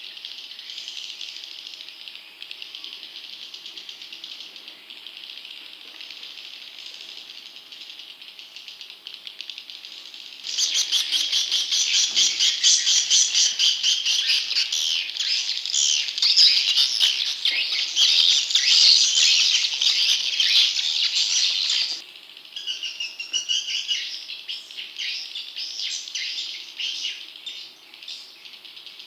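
Recorded swiftlet chick calls: a dense, continuous chorus of high, buzzy chirps, played as a lure to draw wild young swiftlets. About a third of the way in, the chorus turns much louder and busier with rapid clicking, then drops back abruptly to a softer chorus about three-quarters through.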